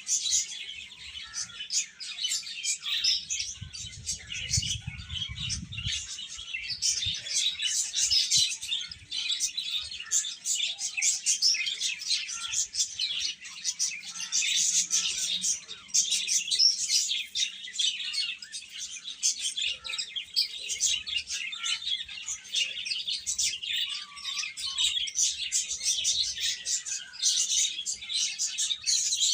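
A group of baby chicks peeping, many high chirps overlapping without a break. A brief low rumble sounds under them a few seconds in.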